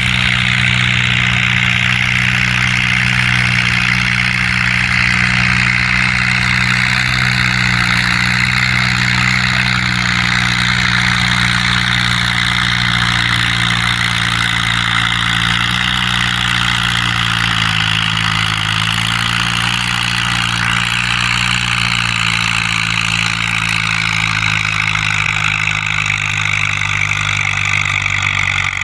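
Farm tractor engine running steadily and loudly, with a higher whine that slowly falls in pitch over most of the stretch.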